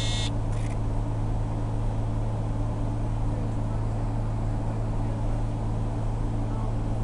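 Steady running noise inside a diesel passenger train: a constant low engine drone over the noise of the wheels on the track. A brief high-pitched squeal at the very start cuts off within half a second.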